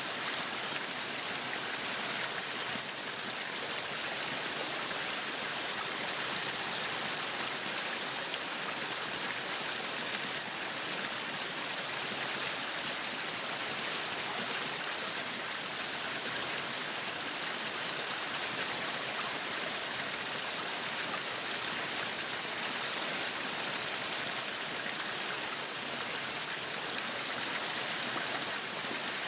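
Meat sizzling on a yakiniku grill: a steady, dense sizzle with fine crackling and spitting fat.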